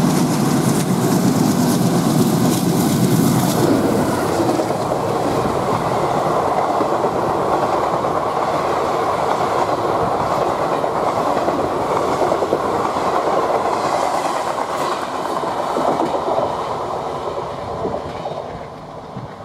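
A WDM-3A diesel-electric locomotive passes with its engine running loud for the first few seconds. Then a long rake of passenger coaches rolls by with steady wheel-on-rail noise, which fades near the end as the train moves away.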